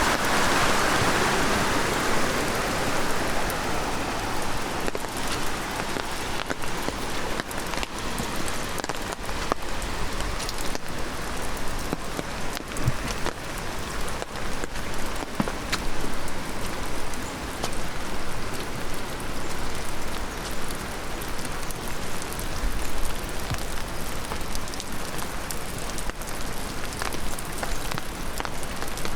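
Heavy rain falling steadily, with many separate raindrops striking close by. A rushing stream is heard at first and fades out over the first few seconds.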